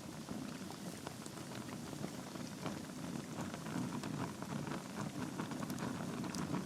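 Log fire in a fireplace crackling: many small, irregular pops and snaps over the steady low rush of the flames.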